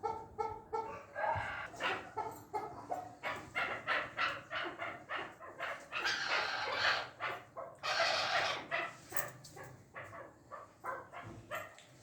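Chukar partridges calling: a rapid run of short, repeated chuk notes, with two louder, harsher calls about six and eight seconds in.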